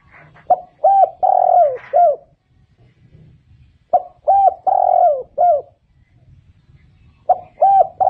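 Spotted dove singing its cooing song, three phrases about three and a half seconds apart. Each phrase has a short note, two quick coos, a longer drawn-out coo and a final coo, and the last phrase is still going at the end.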